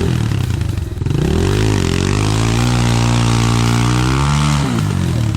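Pit bike's engine revved hard: a short blip about a second in, then held at high revs for two or three seconds before dropping back toward idle near the end.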